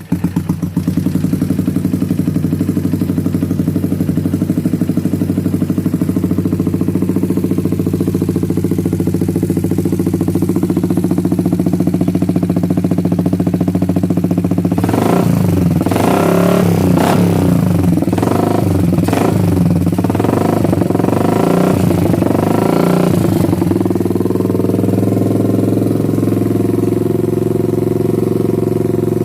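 Motorcycle engine with a Termignoni aftermarket exhaust idling steadily. About halfway through it is revved in a series of quick throttle blips, the pitch rising and falling, for several seconds. Then it settles back to a steady idle.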